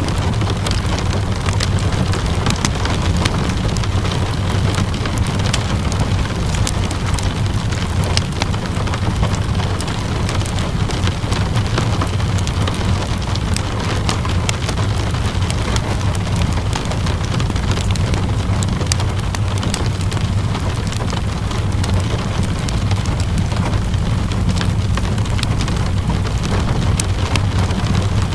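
Steady rainfall mixed with a crackling wood fire: an even rushing hiss with a low rumble beneath it, dotted all through with small sharp pops and snaps.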